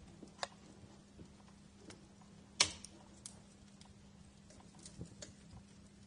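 Wood fire crackling in a fireplace: scattered sharp pops over a faint hiss, with one loud crack about two and a half seconds in.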